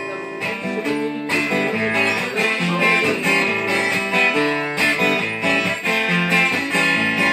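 Guitar music with strummed chords, an instrumental passage playing out the end of the song.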